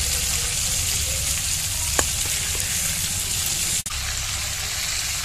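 Pieces of stingray, rubbed with turmeric and salt, sizzling steadily as they shallow-fry in hot mustard oil in a wok while they are turned. There is one sharp click about two seconds in, and the sizzle breaks off for an instant just before four seconds.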